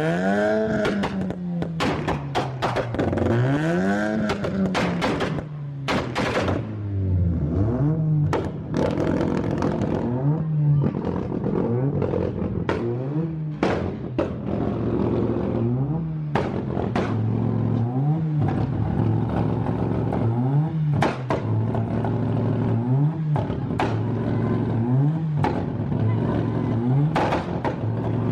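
Car engine with a loud aftermarket exhaust being revved over and over in quick throttle blips, about one every two seconds, each rise in pitch falling back to idle. Sharp cracks run through it.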